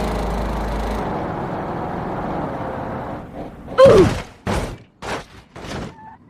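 Car crash: about three seconds of rough vehicle noise, then a loud impact about four seconds in, followed by three shorter thumps.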